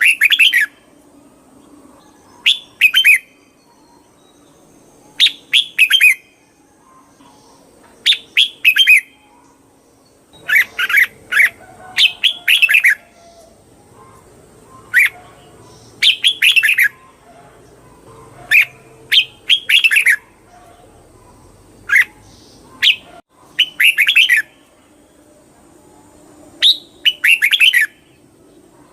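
Red-whiskered bulbul singing: short, bright whistled phrases repeated every second or two, with brief pauses between them.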